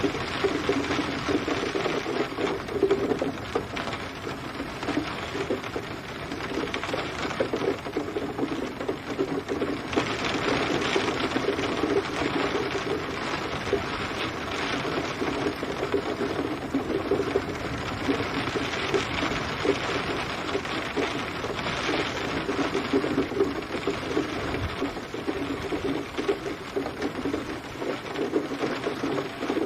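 Steady rain, a dense continuous patter of drops on a surface.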